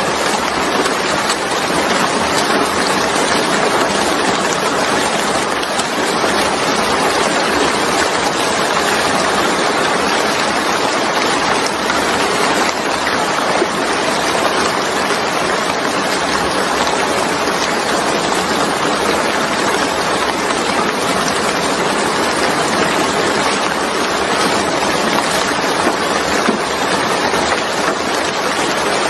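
Steady rain falling on a wet surface: an even, dense hiss of drops with no breaks.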